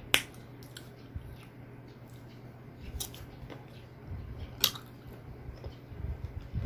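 Close-up chewing of crunchy Indian mango, with wet mouth sounds and a few sharp clicks. The loudest click comes just after the start and another comes near the middle.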